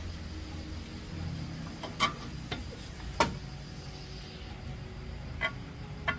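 A few sharp metal clinks and knocks from hand tools and parts being handled, spaced a second or more apart, over a low steady hum.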